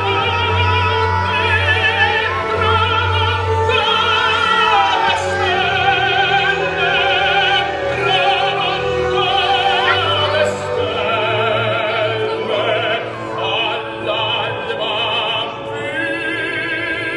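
Classical music: operatic singing with strong vibrato over orchestral accompaniment.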